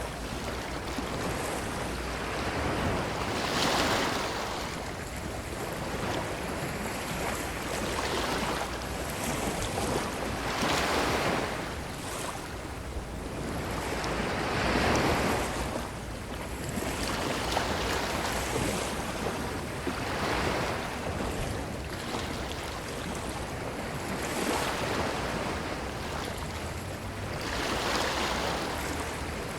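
Ocean waves breaking and washing up a beach, a steady wash of surf that swells with each wave about every four seconds.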